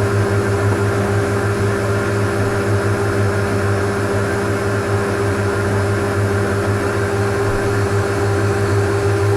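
Metal lathe running steadily under power feed, a constant machine hum from its motor and gearing while a parting tool cuts off the workpiece.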